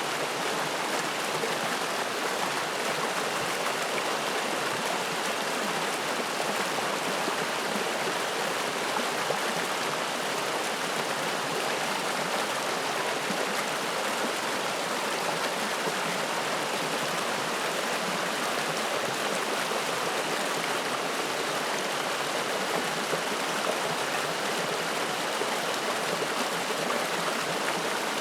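A clear mountain stream of spring water rushing and splashing over rocks, a steady even flow of water noise.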